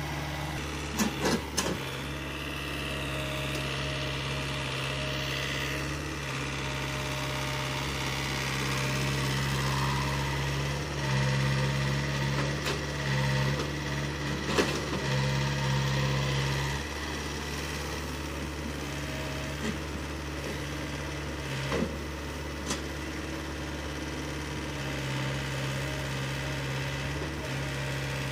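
Diesel engine of earth-moving machinery running steadily, growing louder for several seconds around the middle, with a few short sharp knocks.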